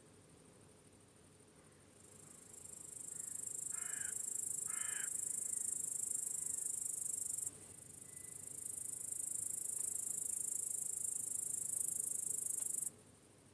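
Crickets chirping in a high, rapid trill that swells in about two seconds in, stops abruptly midway, comes back and stops abruptly again near the end. Two short, lower calls sound in the middle, around four and five seconds in.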